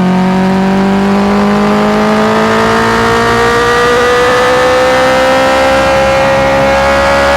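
Honda CBR650R inline-four engine accelerating under load, its revs climbing slowly and steadily through one gear.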